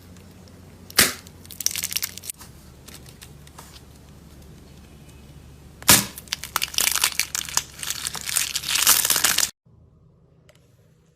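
Slime being squeezed and pressed by hand, crackling and popping: a sharp pop about a second in, then a long dense run of crackles from about six seconds in that cuts off suddenly near the end.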